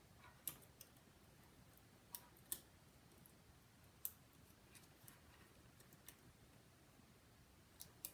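Sparse, light clicks and taps of small repair tools working on the parts inside an iPhone 5 housing, about ten irregular ticks over near silence.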